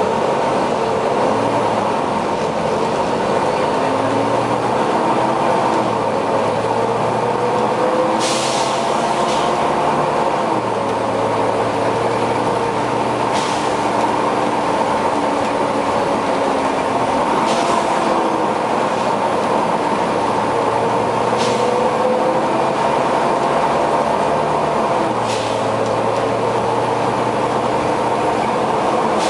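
Volvo B9TL bus's diesel engine running, its note slowly rising and falling, over the steady whine of a very loud cooling fan. From about a third of the way in, short hisses of air come roughly every four seconds.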